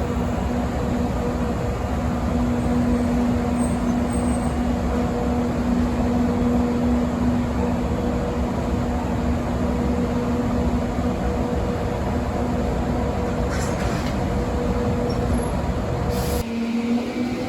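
Electric train running past: a steady rumble with a steady hum over it. Near the end the sound cuts abruptly to a rising motor whine as a train picks up speed.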